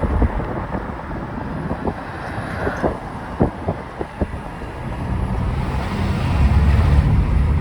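A vehicle driving, its engine and road noise rumbling steadily, with a few short knocks in the first half and a louder rumble building over the last few seconds.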